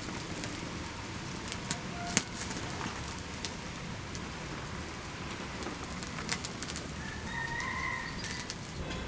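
A bird gives a short call near the end, against a steady hiss with rustling and a few sharp clicks, the loudest about two seconds in.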